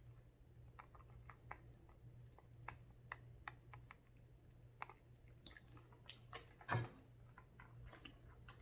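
Quiet eating sounds: faint chewing with scattered soft clicks, and one louder knock about two-thirds of the way through.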